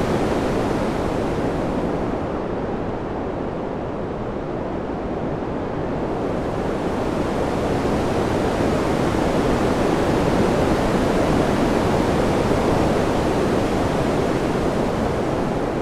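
Steady rushing wind, a dense hiss with no gusting whistles, that slowly eases and duller a few seconds in, then swells again toward the middle.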